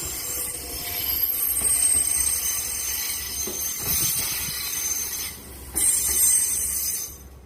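JR train cars rolling past with a loud, high-pitched metallic squeal from the wheels on the rails over a low rumble; the squeal breaks off briefly, returns, and stops near the end.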